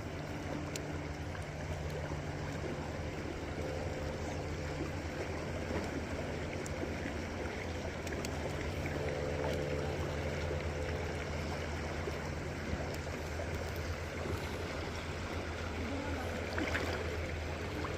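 River current flowing steadily, an even rushing of water.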